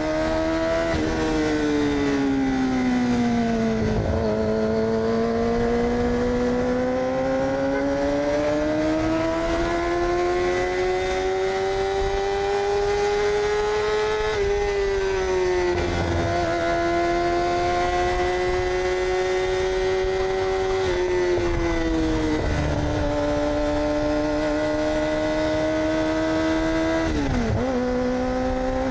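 2006 Yamaha R6's inline-four engine with an AR aftermarket exhaust, running under way: its pitch sinks over the first few seconds, climbs slowly for about ten seconds as the bike accelerates, then drops sharply, and holds fairly steady with further sharp dips at a few points.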